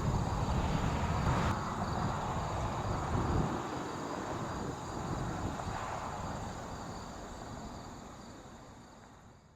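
Low rumble of a Boeing 777-200LR's GE90 jet engines receding as the airliner climbs away, dying out toward the end. A steady high chirping of crickets runs underneath.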